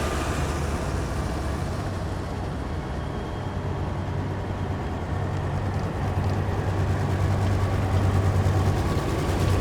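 Heavy military vehicles driving past with a deep, steady engine rumble. One fades away in the first couple of seconds, and the rumble grows louder again in the second half as the next vehicle approaches.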